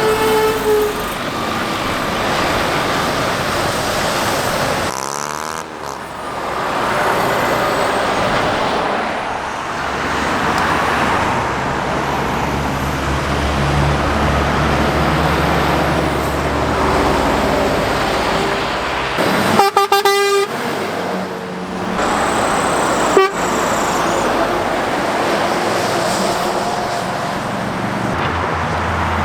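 Heavy road traffic, lorries and cars, passing close by at speed with continuous engine and tyre noise. About twenty seconds in, a vehicle horn sounds in a few quick toots.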